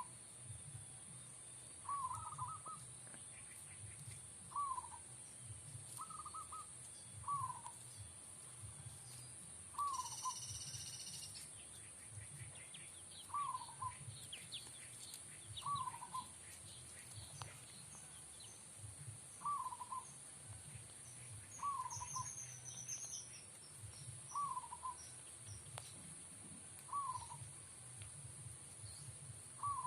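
Caged zebra doves (perkutut) cooing in short repeated phrases, about one every two seconds, answering one another from their cages. A steady high whine runs underneath, and a few high, thin chirps come about two-thirds of the way in.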